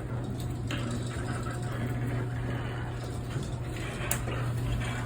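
Garage door opener running steadily, driving the sectional door along its roof pitch track, with a rattle of the door's rollers and hardware, not yet oiled, over the motor's hum and a few clicks.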